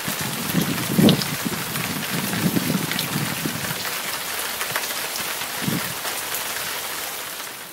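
Steady rain pattering, with rainwater running down a house downpipe, the sound fading near the end.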